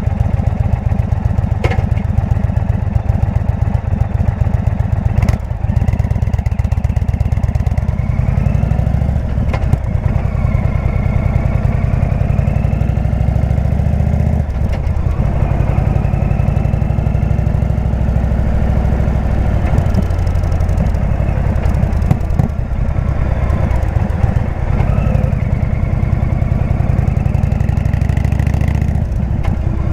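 Indian V-twin motorcycle with a Jekill & Hyde exhaust running under way, its engine note rising and falling with throttle and gear changes, with a few short clicks.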